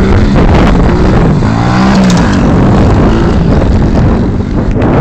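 110cc pit bike's single-cylinder four-stroke engine running loud and close, its pitch rising and falling as it is revved around one and a half to two and a half seconds in.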